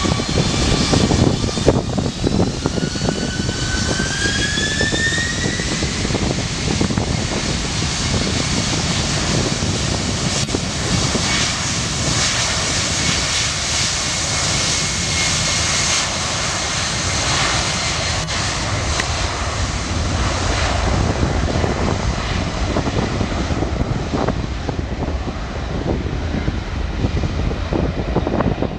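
Jet airliner engines at close range: a loud, steady roar with a whine that rises in pitch over the first few seconds, the roar thinning in its high end later on.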